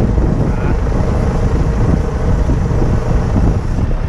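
Crane truck's engine running steadily, with heavy wind buffeting on the microphone.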